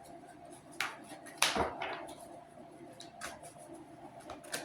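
Tarot cards being handled on a table: a few brief swishes and taps as cards are drawn and laid down, the loudest about a second and a half in.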